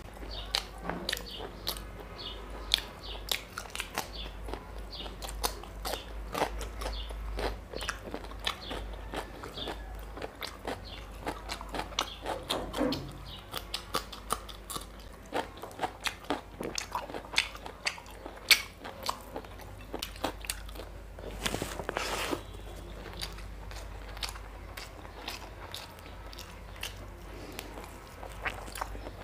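A man chewing mutton curry and rice eaten by hand, with frequent irregular wet mouth clicks and lip smacks. Once, about two-thirds of the way through, comes a breathy rush about a second long.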